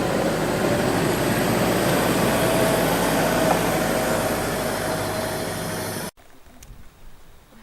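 A 4x4 vehicle driving along a rocky trail, with steady engine and road noise. It cuts off suddenly about six seconds in, leaving only faint sound.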